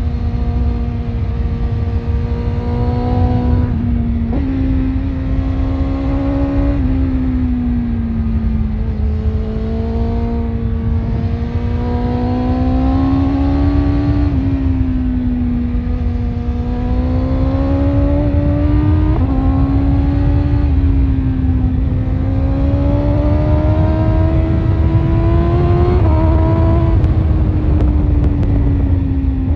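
BMW S1000RR's inline-four engine running through an Akrapovic exhaust under way: the engine note slowly rises and falls with road speed, with several abrupt steps in pitch as gears are changed. A heavy low rumble of wind on the microphone lies under it throughout.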